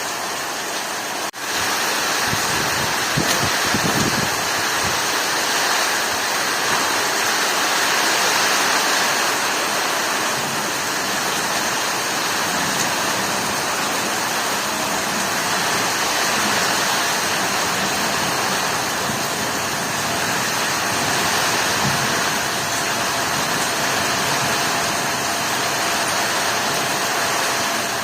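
Heavy rain pouring down steadily in a rainstorm, a dense, even hiss, with a brief dropout about a second in.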